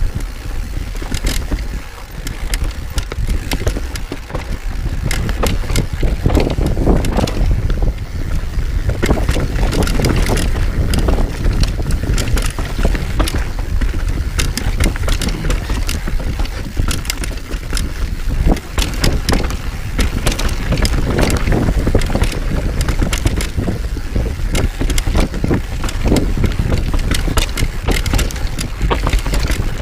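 Mountain bike descending a rough trail at speed: the bike rattles and knocks over roots and rocks, with many sharp clacks, while wind buffets the microphone with a steady low rumble.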